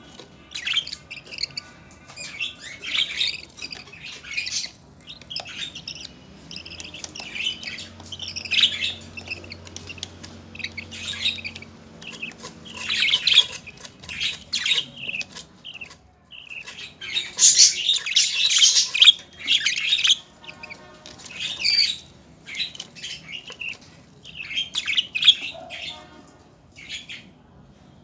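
Budgerigars in a nest box chirping and squawking in repeated raspy bursts, with a louder run of calls about two-thirds of the way through.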